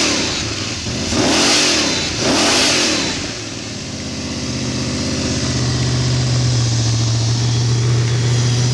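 RPi V8 engine, run without an air filter, blipped twice in quick succession, then held at steady raised revs with a strong, even droning hoot; the hooting comes from the open intake with no air filter fitted.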